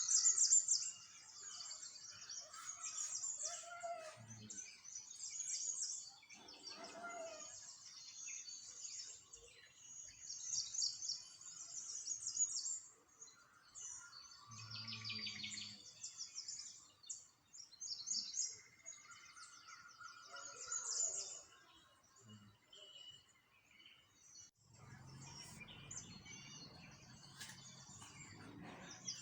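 Small birds chirping and twittering together, with many rapid high trills and some lower calls. A soft low rumble comes in near the end.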